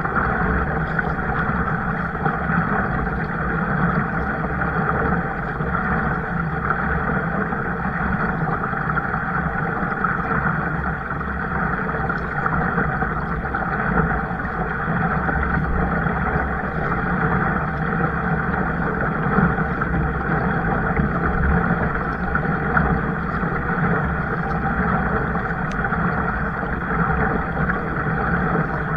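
Steady rushing noise of wind on the microphone and water moving around a kayak, with a deep rumble underneath and no break.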